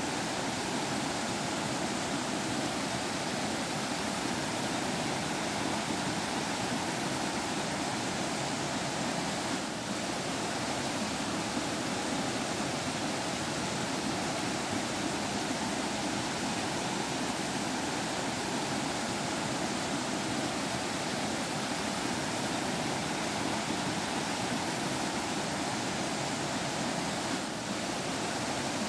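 Forest stream flowing and babbling steadily over rocks.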